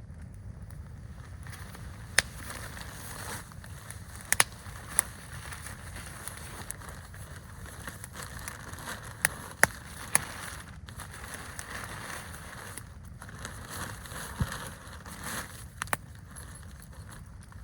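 Campfire crackling: scattered sharp pops at irregular intervals over a steady low rushing noise.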